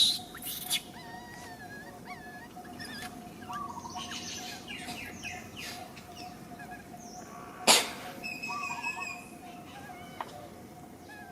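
Baby monkey giving short, high squeaking and chirping calls, many in a row, with a loud brief noisy burst about eight seconds in.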